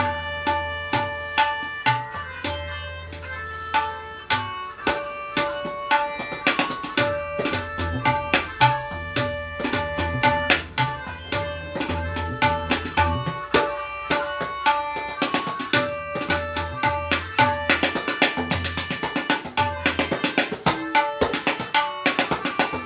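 Tabla solo in teentaal: rapid dayan and bayan strokes, with deep ringing bass strokes from the bayan, over a melodic accompaniment of held notes. About three quarters of the way through the strokes become denser and faster.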